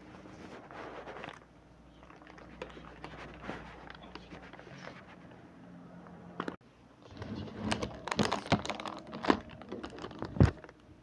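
Rustling and clicking of food packaging and containers being handled, getting busier in the second half, with a sharp knock about ten seconds in.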